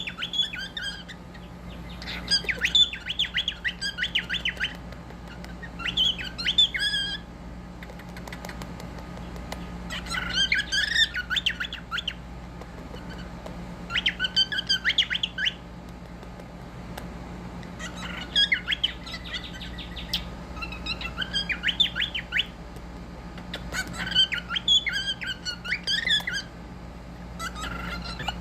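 Pet parrot squawking in repeated bouts of rapid, harsh chattering notes, about eight bouts of a second or two each, separated by short pauses.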